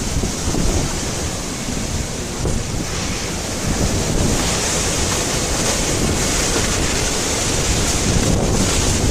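Strong storm wind blowing against the microphone: a steady rushing noise with rumbling gusts underneath.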